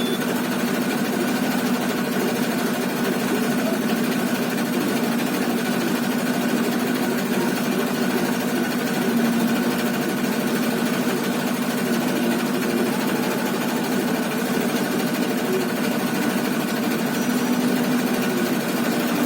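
A heavy diesel engine running steadily: a constant, even drone that holds the same pitch throughout.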